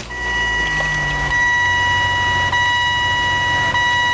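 2003 Saturn VUE's 2.2-litre four-cylinder engine running just after starting, a brief rise in its low rumble in the first second and then steady idle. A steady high-pitched electronic warning tone from the dashboard sounds over it.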